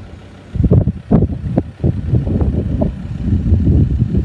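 Wind buffeting the microphone: irregular low rumbling gusts that swell and drop, after a brief lull at the start.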